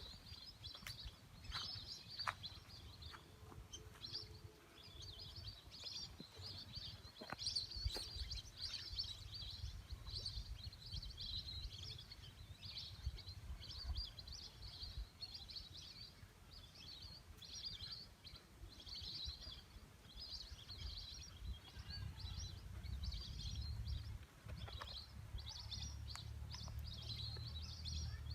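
A flock of birds calling, many short high chirps overlapping without a break. A low rumble runs underneath and grows stronger in the last few seconds.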